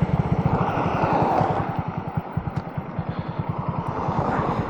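Honda Grom's 125 cc single-cylinder four-stroke engine running at low revs with a quick, even putter of firing pulses.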